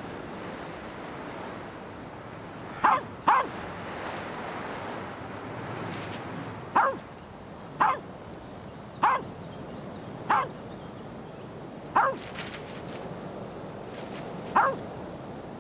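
A dog barking, eight short barks spaced irregularly about one to two and a half seconds apart, over a steady rush of wind.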